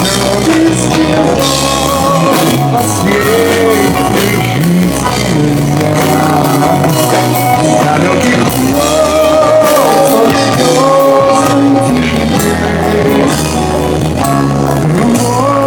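A live pop-rock band playing a song: a steady bass line under a wavering melody line, with singing in it.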